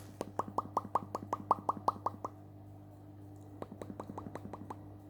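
Alexandrine parrot making rapid popping clicks, about five a second: a run of about ten, then a fainter run about a second later.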